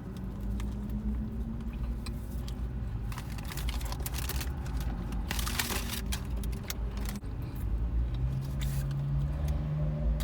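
Close-miked eating of a spicy chicken wrap: chewing with crisp rustles of the paper wrapper, the densest rustling about halfway through, over a steady low hum.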